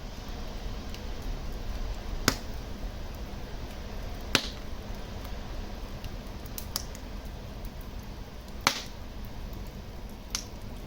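Wood fire crackling in a fireplace: a steady low rumble of flames broken by sharp pops, the loudest about two, four and a half, and eight and a half seconds in, with smaller ticks between.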